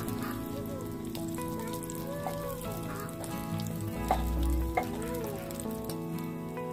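Chopped onion and garlic sizzling as they fry in oil in a small aluminium pot. A spoon stirs them, with two sharp clinks against the pot a little past halfway.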